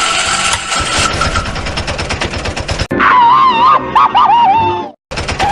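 A fast, rattling engine sound, then about three seconds in a loud wavering high-pitched cry that breaks once and cuts off suddenly just before the end.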